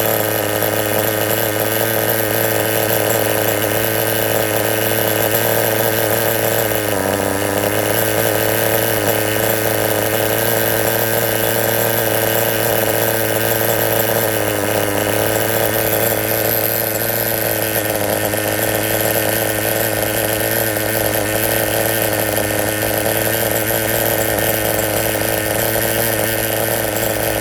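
RT4-GP engine running steadily through its exhaust after being tuned, at a fairly constant speed with a brief dip in pitch about seven seconds in.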